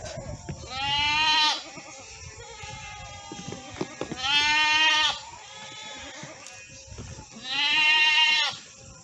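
Bleating farm animal calling three times, each bleat about a second long and about three and a half seconds apart.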